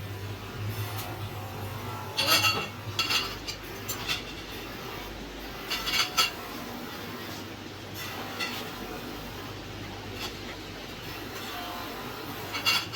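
Pieces of metal clinking and clanking as they are handled, in a few separate clusters of strikes a couple of seconds apart, over a steady low hum.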